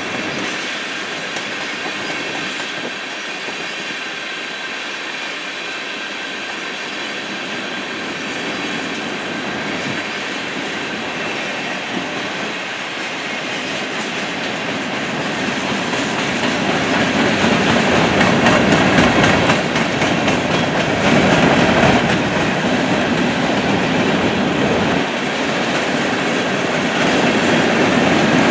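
Freight train cars rolling past on the rails: steady wheel-on-rail noise with clickety-clack as the wheels cross the rail joints, growing louder about halfway through.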